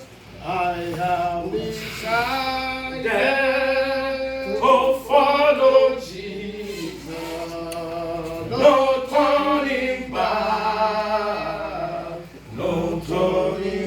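Church congregation singing a worship chorus together, in long held notes with short breaks between phrases.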